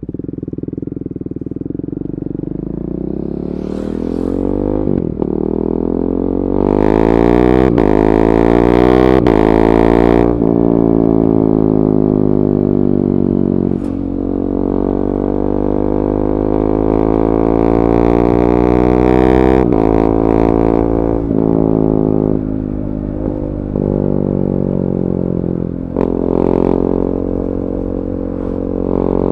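KTM 390 Duke's single-cylinder engine through an Akrapovic slip-on and decat pipe, pulling hard with the revs climbing and breaking off sharply at several quick upshifts.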